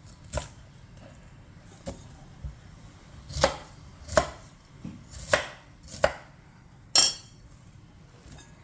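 A knife chopping vegetables on a cutting board with slow, unevenly spaced strokes, about eight in all. The last stroke, near the end, is the loudest and rings brightly.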